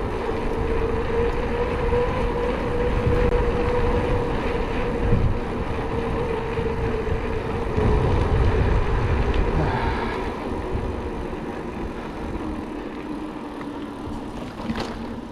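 Wind buffeting the microphone and tyre noise from a mountain bike coasting downhill on a paved road, with a steady hum that drops lower and fades about two-thirds of the way through.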